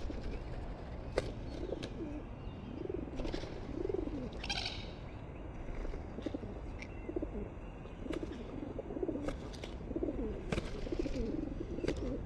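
Birds calling with repeated low, rising-and-falling cooing notes, with a few sharp clicks between them and one higher call about four and a half seconds in.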